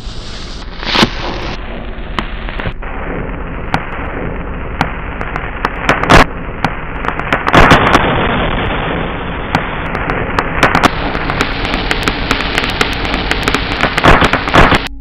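Pyro Viagra firecracker going off: continuous dense crackling with many sharp pops, and a few louder bangs scattered through.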